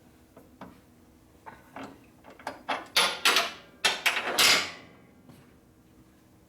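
Metal tools clanking and clinking against the motorcycle's front wheel hardware, in a series of irregular knocks with a faint metallic ring. The knocks are sparse at first and come thickest and loudest between about three and five seconds in.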